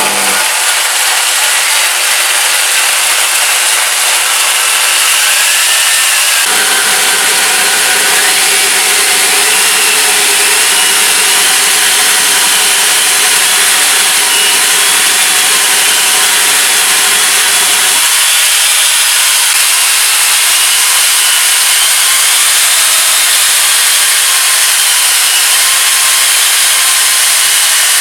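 Angle grinder fitted with a chainsaw attachment, cutting wood: a loud, steady run of chain rasping through wood, with a high motor whine that wavers in pitch as the load changes.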